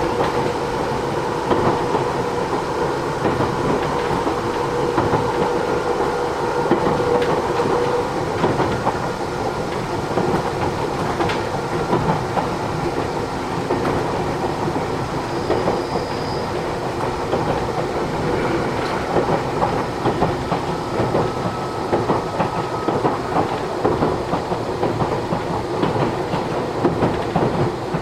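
Matsumoto Electric Railway 3000 series electric train running, heard from inside the car: steady rolling noise with wheel clatter over the rails, and a steady whine that fades out about eight seconds in.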